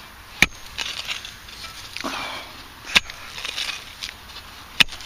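A digging tool chopping into pasture soil to dig out a metal detector signal: three sharp strikes, with soil crumbling and scraping between them.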